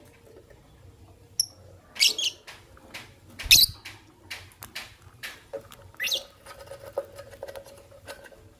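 Lovebirds giving a few short, high chirps, the loudest about three and a half seconds in, with scattered small clicks and taps between them.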